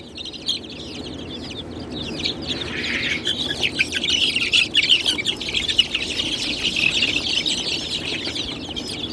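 A brood of young chicks peeping together: a dense chorus of many short, high cheeps that fills in and grows louder after the first couple of seconds.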